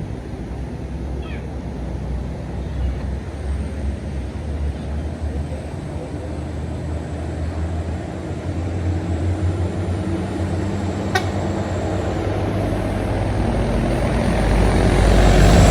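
Road traffic: vehicle engines make a steady low rumble, and a heavy vehicle approaches and grows louder near the end. A single sharp click comes about eleven seconds in.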